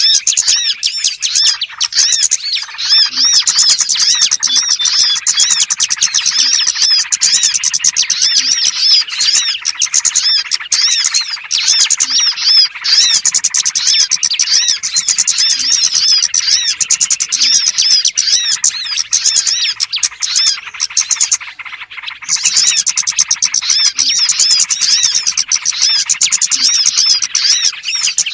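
Small songbirds chirping in a dense, rapid, continuous chatter, with only brief breaks a few times. It is a bird-lure call (suara pikat) for small birds, played to draw them in.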